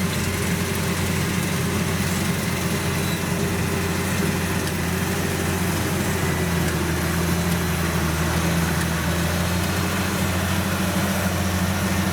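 Kubota DC93 combine harvester's diesel engine running steadily under load as the machine creeps slowly through lodged rice in soft mud.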